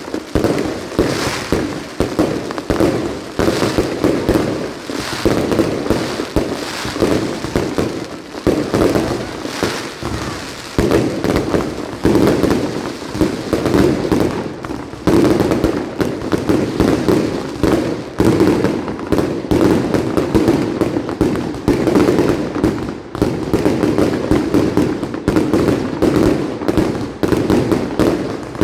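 Nighttime mascletà: a dense, continuous barrage of firecracker bangs rattling off in rapid succession, with brief lulls now and then.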